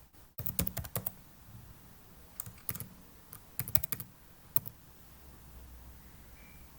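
Typing on a computer keyboard: quick clusters of keystrokes entering an email address, about four bursts over the first four and a half seconds, then the typing stops.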